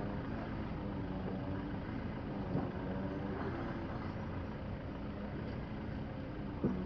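Diesel engine of a heavy-haulage self-propelled modular transporter running steadily as the load moves off, an even pitched hum. A short knock comes near the end.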